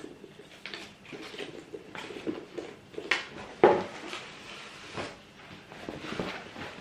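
Hands handling and opening a gift travel pouch and its contents: light rustling with scattered small clicks and knocks, the sharpest a couple of knocks about three to three and a half seconds in.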